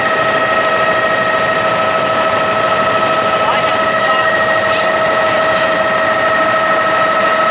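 Helicopter in flight, heard from inside the cabin: a steady turbine whine on a few even pitches over a constant rushing engine and rotor drone.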